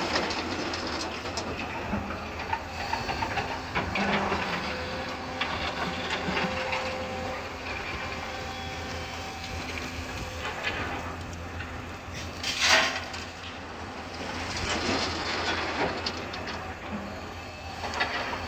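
Hyundai 220 HD excavator's diesel engine running steadily under load, with scattered clanks and scrapes from the bucket working material, and one short loud rushing burst about twelve and a half seconds in.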